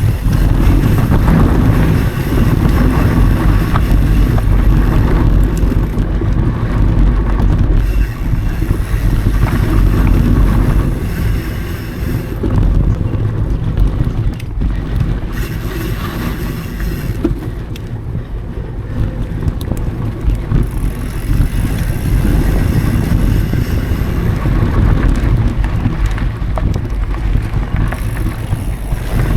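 Mountain bike being ridden on dry dirt singletrack: a steady rumble of wind on the action camera's microphone and tyre and frame noise, with small clicks and knocks. It eases off for several seconds in the middle.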